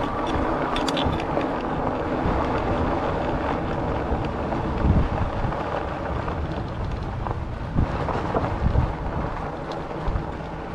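Wind buffeting the microphone of a chest-mounted action camera on a moving e-bike, with a few low thumps about five and eight seconds in.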